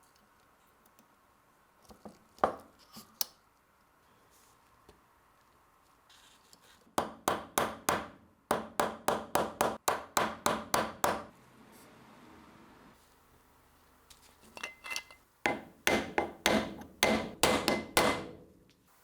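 Hammer tapping: three single knocks, then two runs of quick, evenly spaced strikes at about three to four a second, with a faint ringing during the second run.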